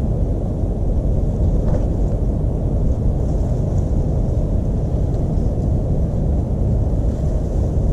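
Steady low outdoor rumble with no clear beginning or end, with one or two faint, short high chirps from small birds.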